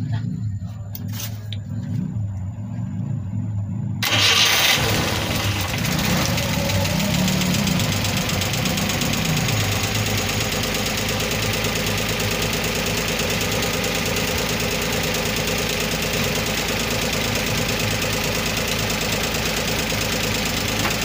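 Multicab engine being started: it cranks for about four seconds, then catches suddenly and revs up, and settles into steady running. This is a start test of an engine that had been hard starting, after its distributor and spark plug leads were worked on.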